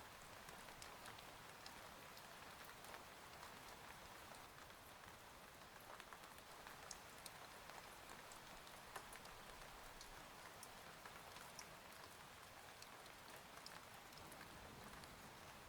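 Faint, steady rain on a cabin window, with scattered sharp drop ticks through the hiss.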